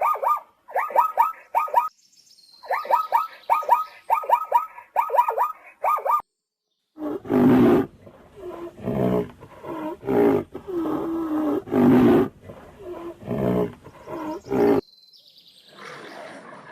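Animal calls in two parts. First come groups of quick, high repeated calls; then, after a brief break, a series of deep, loud calls that rise and fall.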